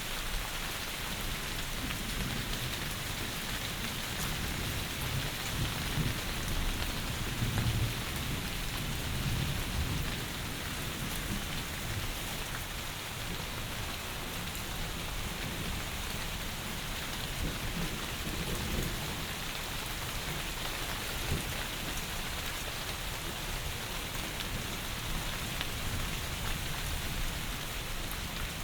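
Heavy rain falling steadily as an even hiss. A low rumble of thunder swells and fades in the first third.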